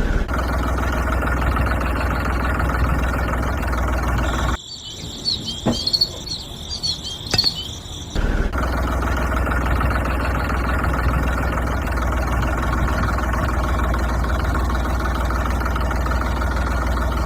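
Small electric motor of a homemade mini JCB toy running with a steady hum. The hum stops for about four seconds a little past the start, giving way to high chirping squeaks and a few sharp clicks, then resumes for the rest.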